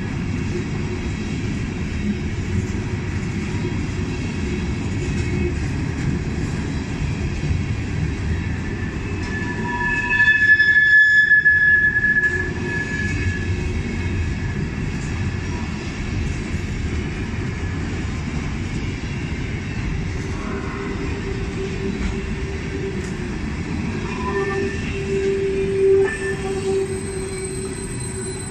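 Kansas City Southern de México freight train rolling past: a steady low rumble of cars on the rails, with wheels squealing on and off, a loud high-pitched squeal about ten seconds in and a lower squeal near the end.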